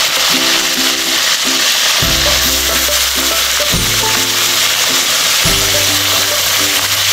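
Yogurt-marinated chicken pieces sizzling in hot oil in a kadai as more pieces are dropped in, a steady frying hiss. Background music with low bass notes plays along, entering about two seconds in.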